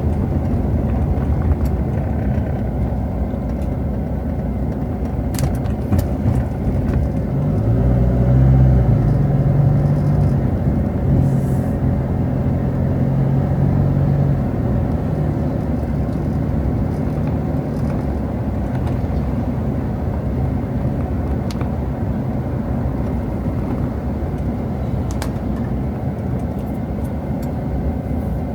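Road traffic: a steady low rumble of passing vehicles, with one engine's low hum growing louder about a third of the way in and fading away again a few seconds later, as a vehicle passes close.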